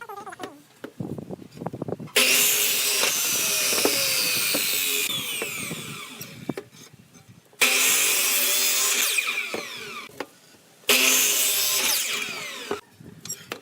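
A saw cutting through bamboo in three long stretches, each starting and stopping abruptly. Scattered knocks come before the first cut.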